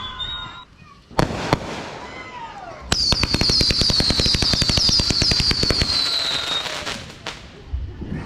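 Consumer fireworks going off. Two sharp bangs about a second in are followed by a falling whistle. From about three seconds a rapid run of crackling pops, about ten a second, sounds under a high whistle that slowly falls, dying away near seven seconds.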